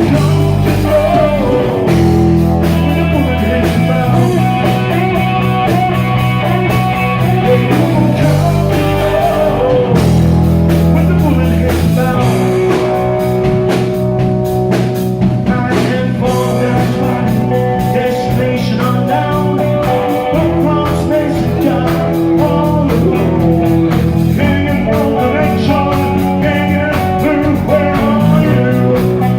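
Live band playing a rock song: held bass notes that change every few seconds under guitar chords, with a steady drum beat.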